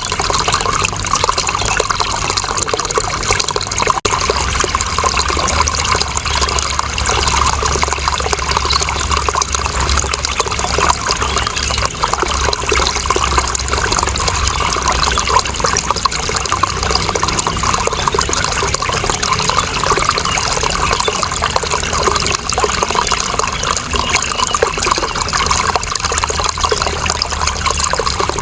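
Running water flowing and splashing steadily, an even continuous rush with no break or change.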